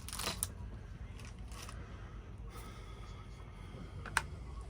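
Small handling noises of tools and parts: a few brief scrapes and rustles near the start, then a single sharp click about four seconds in, over a low steady hum.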